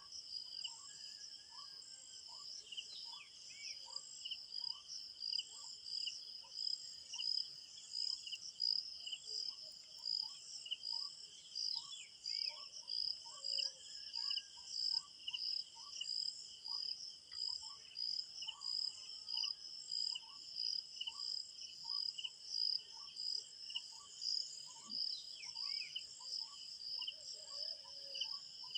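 Crickets chirping in a steady, pulsing chorus, with a fainter regular ticking call beneath. A few short bird calls come in now and then.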